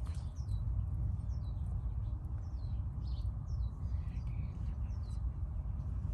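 A small bird hidden in a bush chirping repeatedly, short high chirps that fall in pitch, about two a second, over a steady low rumble.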